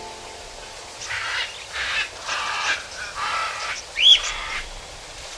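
Birds calling: a run of about five harsh, rough calls, then a single clear arched chirp about four seconds in.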